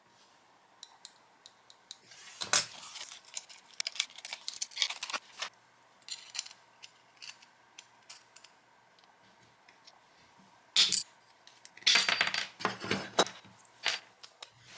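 Small metal pieces clinking and clattering as they are handled, in scattered clicks and a few louder bursts with a short metallic ring.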